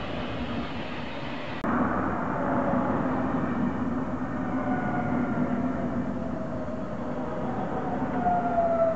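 Regional electric trains running. A double-deck train approaches a platform, then a train passes a level crossing with a steady hum and several whining tones that slowly fall in pitch, loudest near the end.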